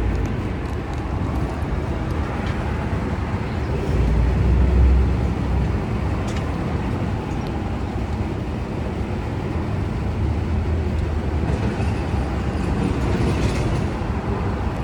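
Steady downtown street noise: traffic and city hum with a low rumble that swells louder about four to five seconds in.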